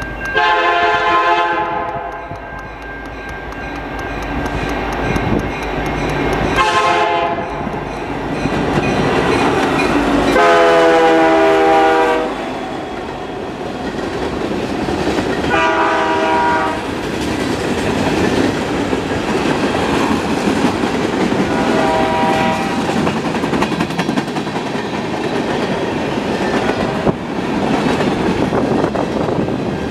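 Air horn of a Canadian National SD75I diesel freight locomotive, sounded in about five blasts; the longest and loudest comes about ten seconds in and the last near the end is fainter. Throughout, and between the blasts, there is the steady rumble and wheel clatter of a freight train's tank cars and gondolas rolling past.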